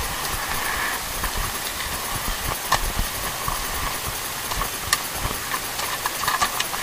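Steady hiss of ambient noise on a sportfishing boat's deck, with scattered light clicks and knocks.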